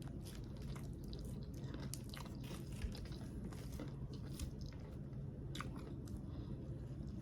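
Close-miked chewing and biting of an egg roll dipped in sauce: scattered crunches and wet mouth clicks.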